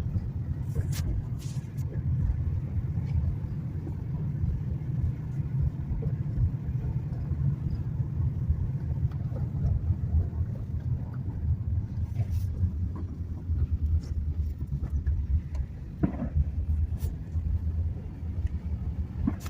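Steady low rumble of a car driving, with a few faint, brief sharp pops scattered through it.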